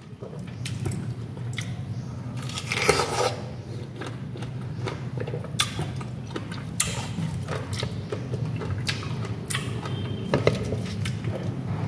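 A person biting into and chewing fresh peeled pineapple close to the microphone: many short sharp clicks of biting and chewing, with a louder bite about three seconds in, over a low steady hum.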